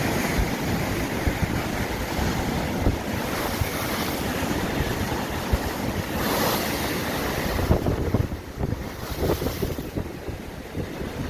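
Strong wind buffeting the microphone over the wash of sea waves on the shore, with waves surging every few seconds. The wind eases and turns gusty near the end.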